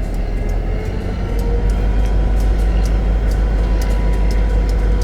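Diesel locomotive of a track geometry train running as the train moves off, a steady low engine drone with a faint steady tone above it. Light ticks repeat a couple of times a second.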